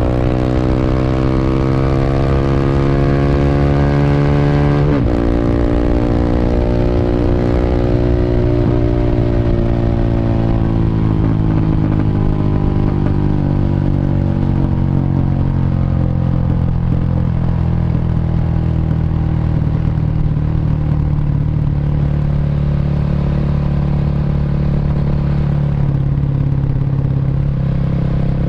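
Honda Revo motorcycle's single-cylinder four-stroke engine, bored up to 150cc, running through a CLD C7 aftermarket exhaust while riding. It revs up, shifts gear about five seconds in, pulls up again, then eases off gradually and settles into a steady cruise.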